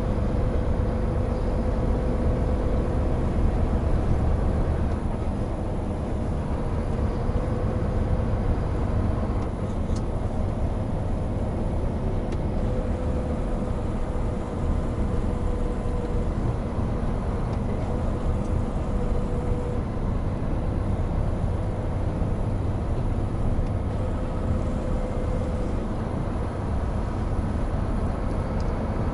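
Hino Profia heavy truck on the move: its diesel engine runs steadily under a constant rumble of tyre and road noise, with a faint whine at one pitch that comes and goes.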